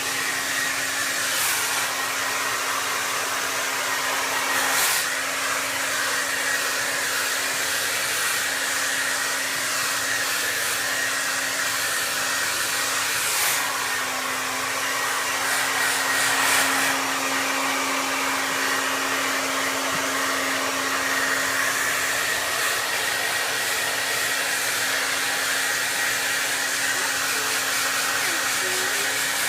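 Handheld hair dryer running continuously, a steady rush of air with a motor whine. There are a few brief louder gusts, and the whine's pitch wavers slightly a little past the middle.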